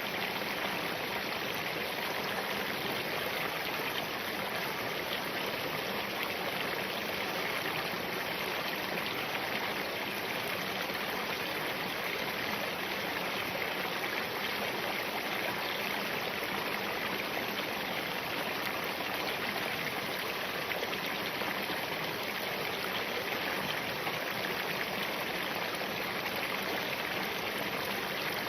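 Spring-fed mountain stream running over rocks: a steady, even rush of water that does not change.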